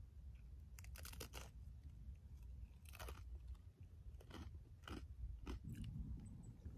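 A person chewing crunchy food close to the microphone: a few separate crisp crunches spread over several seconds, over a faint low rumble.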